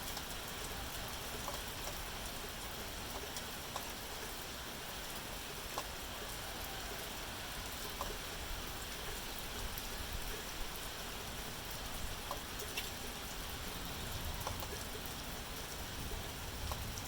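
Steady rain falling, with separate drops ticking out from the hiss every second or so.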